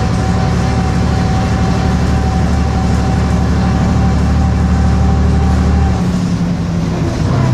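Bristol RE single-decker bus engine running steadily under way. About six seconds in the engine note drops and changes, then settles at a new steady pitch near the end.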